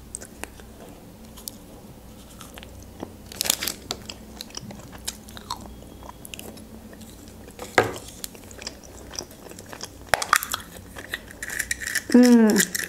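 Chewing and crunching milk chocolate from a chocolate surprise egg, with scattered small clicks as the plastic toy capsule is handled. There is a short falling pitched sound just after 12 seconds in, as the capsule is pulled apart.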